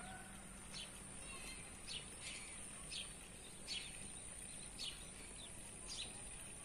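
A small bird chirping over and over, short high falling notes about once a second, against a steady outdoor hiss.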